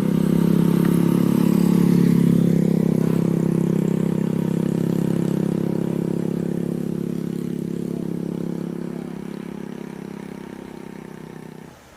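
A vehicle engine running with a steady low drone, loudest about two seconds in and then slowly fading away.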